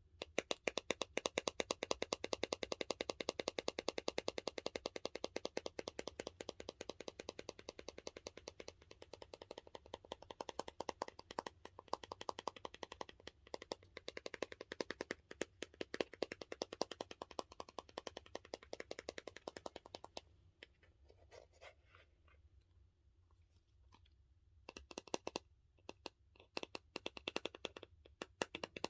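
Fingernails tapping and scratching quickly on the hard plastic case of a dumpling squishy toy, a rapid stream of crisp ticks that stops for a few seconds about twenty seconds in and then starts again.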